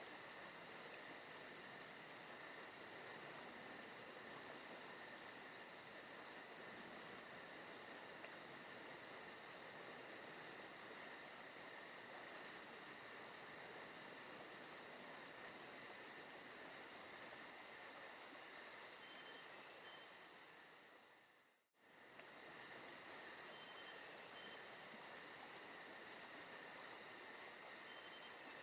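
Forest ambience recording dominated by a steady chorus of crickets and other insects, a continuous high chirring with a fast even pulse. About twenty seconds in it fades away to near silence and comes straight back.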